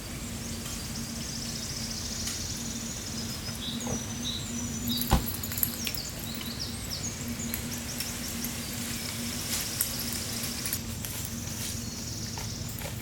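Outdoor ambience of high trilling insect calls that swell and fade, over a steady low hum, with one sharp knock about five seconds in.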